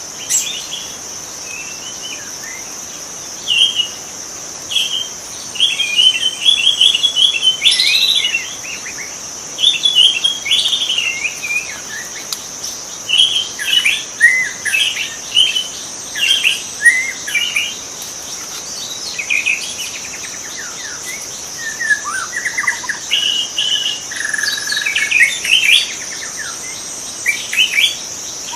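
White-rumped shama (murai batu) singing in bouts of short, varied whistled phrases with brief pauses between them, over a steady high-pitched insect drone.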